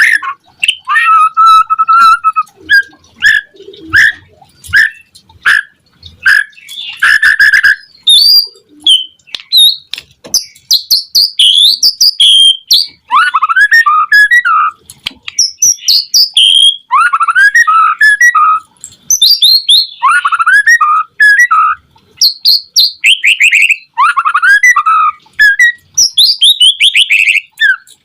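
White-rumped shama (murai batu) singing vigorously: a fast, unbroken run of varied whistled phrases, rising and falling glides, chirps and rapid trilled notes with brief pauses between phrases.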